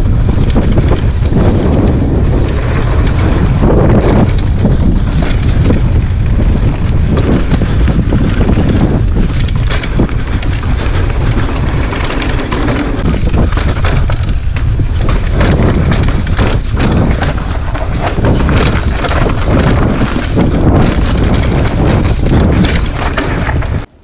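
Strong wind buffeting the microphone: a loud, dense noise heaviest in the low end that swells and dips with the gusts, cutting off suddenly at the very end.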